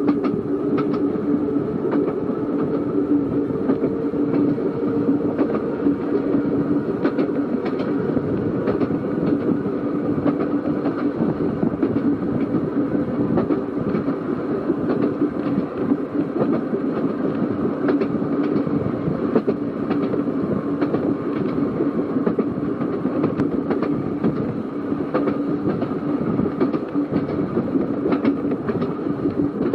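Seaton Tramway narrow-gauge electric tram running along the track: a steady running noise with a held low hum, and frequent irregular clicks as the wheels pass over the rails.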